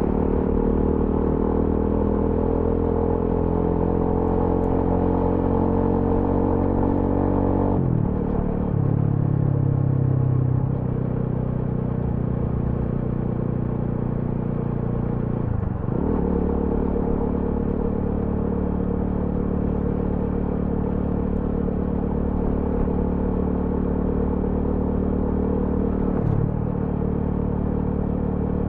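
TVS Apache RTR 200 4V's single-cylinder engine running under way. Its pitch climbs steadily for about eight seconds, drops suddenly, then dips briefly twice more, about halfway through and near the end.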